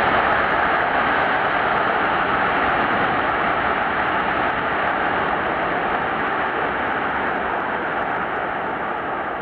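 Jet aircraft engines, a steady rushing noise that slowly fades.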